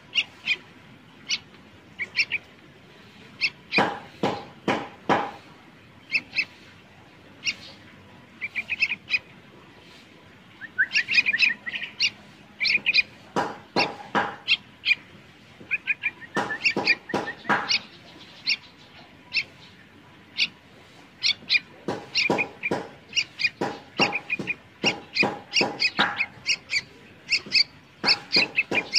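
An animal's short chirping calls, repeated irregularly throughout, sometimes singly and sometimes in quick runs of several.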